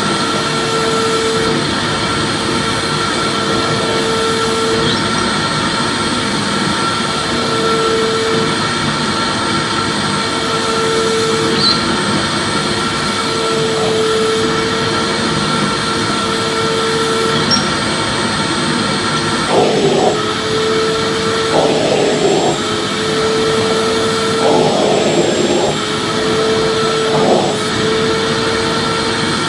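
Vacuum cleaner running steadily: a constant rushing noise with a fixed whine over it. From about 20 seconds in, a few short rougher bursts break in.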